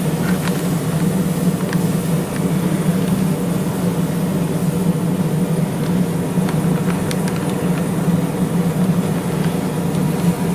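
Forge running steadily while the billet heats: a constant, loud low hum, with a few faint ticks.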